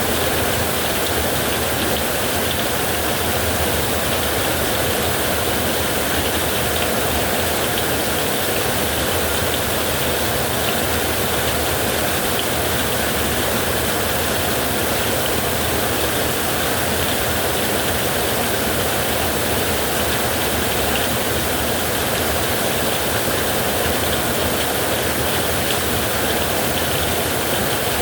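Heavy rain with storm wind: a steady, unbroken rush with no thunderclaps or other distinct events.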